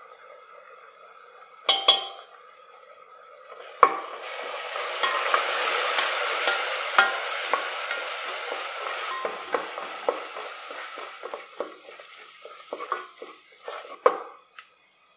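Onion-tomato masala with ground spices frying in oil in a stainless steel pressure cooker, stirred and scraped with a wooden spatula. After a brief metallic clink about two seconds in, a loud sizzle starts at about four seconds with the stirring, then dies down toward the end under repeated spatula scrapes and knocks against the pot.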